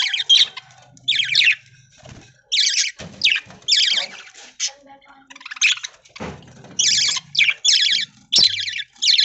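Budgerigars chattering: short, shrill, rasping chirps, one or two a second, overlapping from several birds.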